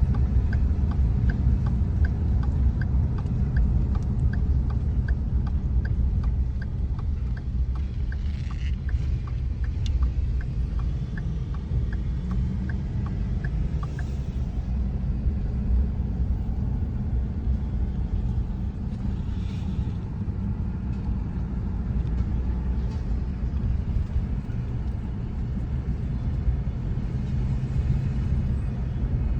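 A truck being driven, heard as a steady low engine and road rumble. A light regular ticking, about two ticks a second, runs over it and stops about halfway through.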